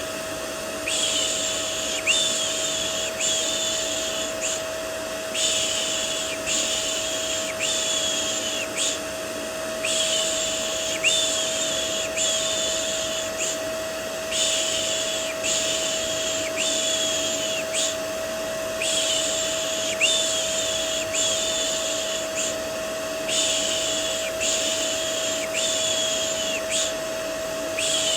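Vacuum cleaner running steadily with a constant motor whine, overlaid by baby-soothing 'shh' shushing: about one shush a second, in runs of four with short pauses between runs.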